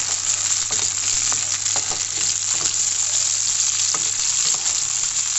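Halved cherry tomatoes and garlic sizzling in hot olive oil in a frying pan: a steady hiss with scattered sharp pops and crackles as the tomatoes sputter in the oil.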